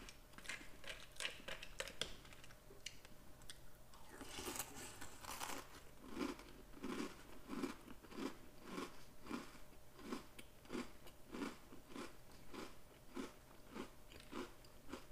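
Close-up chewing of a mouthful of Oreo O's chocolate cereal in milk, crunching in a steady rhythm of about one and a half chews a second.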